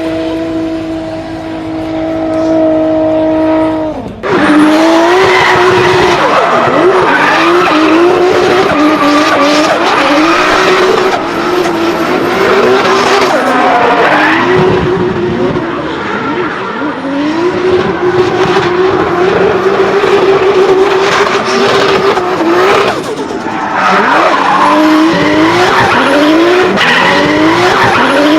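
Toyota Supra Mk4's 2JZ inline-six running at high revs through a drift, its note repeatedly climbing and falling back as the throttle is worked, with tyres squealing and skidding. About four seconds in, a steady high engine note breaks off and the revving starts.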